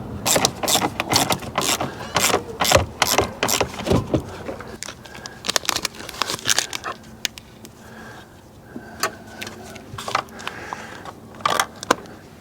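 Ratchet wrench clicking in quick runs, tightening down the battery hold-down clamp; the clicks come thick at first and then more sparsely.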